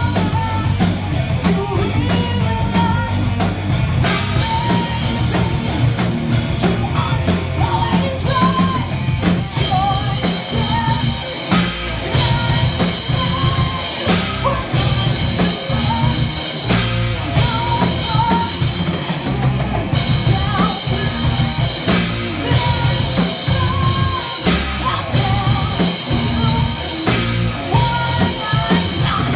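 Metal band playing live at full volume, with a pounding drum kit driving a steady beat under the band.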